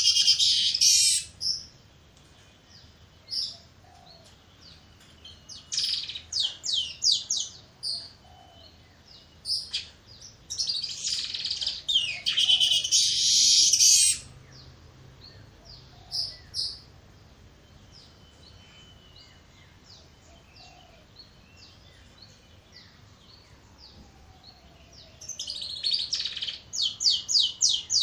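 Weaverbirds calling: bursts of rapid, high-pitched chattering separated by quieter stretches of scattered single calls.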